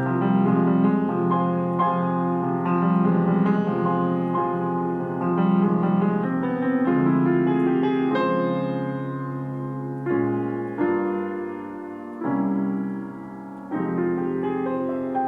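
Piano duet playing a gentle melody with flowing accompaniment, thinning after about ten seconds into slower chords struck one at a time and fading.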